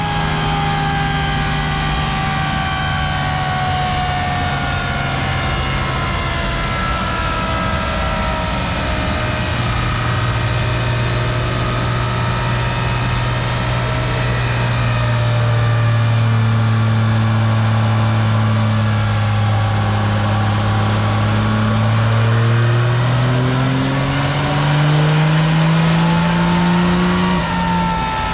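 Truck engine running, its pitch slowly falling over the first half and then rising again near the end, with a faint high whistle that sweeps down and back up.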